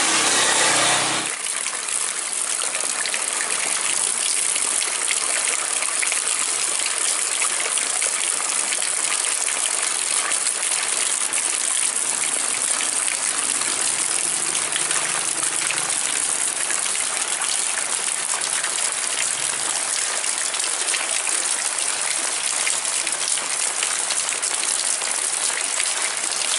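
Heavy rain pouring down steadily, a dense even hiss. It is louder and fuller for about the first second, then drops to a steady level.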